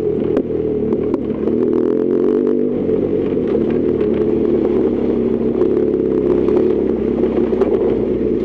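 BMW R1200GS Adventure's boxer twin engine running at fairly steady revs while riding a gravel forest road, with scattered clicks and clatter from stones and the ride.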